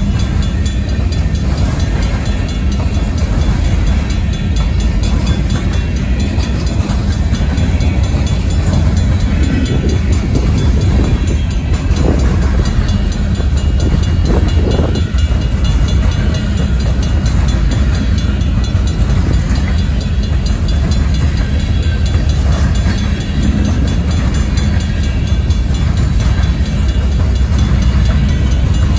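Loaded grain train of covered hopper cars rolling past close by: a steady, loud rumble of steel wheels on the rails.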